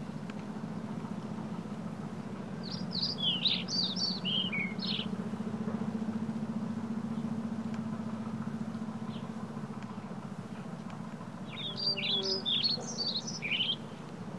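A songbird singing two fast, jumbled phrases of high, quick notes, each about two seconds long, the first a few seconds in and the second near the end, over a steady low hum.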